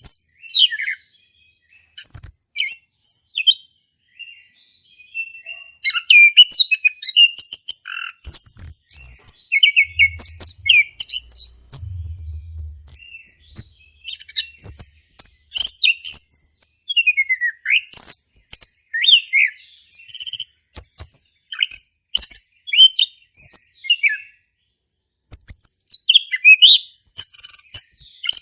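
Male chestnut-capped thrush singing a loud, rapid, varied song of whistles and chirps, broken by a few short pauses.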